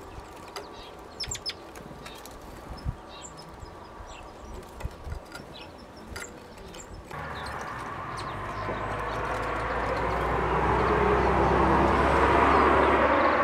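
Brief high chirps and ticks from great tits at a feeder over quiet background. About seven seconds in, the noise of a passing vehicle sets in with a low steady hum and swells steadily louder.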